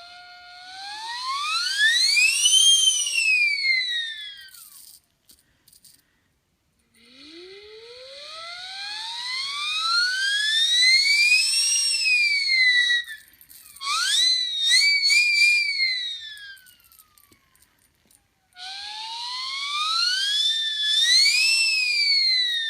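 Siren whistle blown by mouth, its rotor spinning up and down. Four long blows, each a wail that rises in pitch and slides back down; the third is shorter and wavers.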